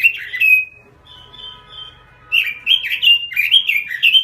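Pekin robin (red-billed leiothrix) in full song: quick, fluting, warbled phrases that break off for about a second and a half near the start, then pick up again.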